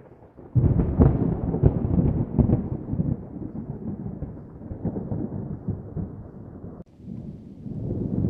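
Thunder: a sudden loud crack about half a second in, rolling and crackling as it fades. It breaks off suddenly near the end, and another low rumble builds.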